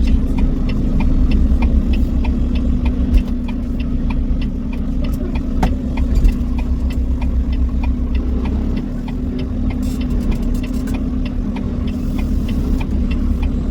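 Truck engine running steadily: a low, even drone with a faint regular ticking over it.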